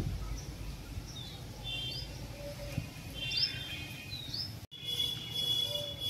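Small birds chirping, short rising calls every second or so, over a low wind rumble on the microphone. After a sudden cut near the end, a steady high-pitched tone.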